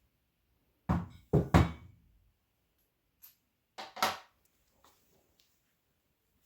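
Three heavy knocks in quick succession about a second in, then two sharper knocks close together about four seconds in.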